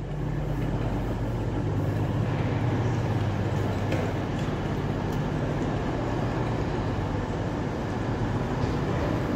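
Class 170 Turbostar diesel multiple unit arriving at a platform, its underfloor diesel engines running with a steady low hum that grows a little louder in the first second or two.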